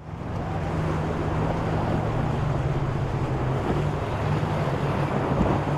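A boat's engine running steadily, with a rushing noise of wind and water over it.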